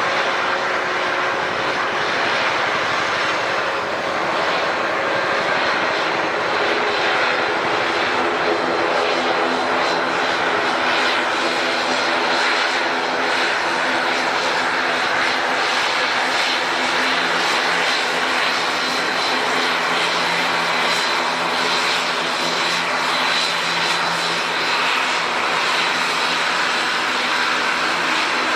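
Airliner engines running steadily at an airport, a constant hum with a thin high whine and no build-up or fade.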